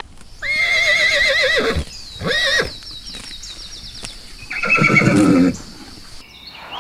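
Horse neighing: a long whinny with a quavering pitch that drops away at the end, a short second call, then a rougher, lower call about five seconds in.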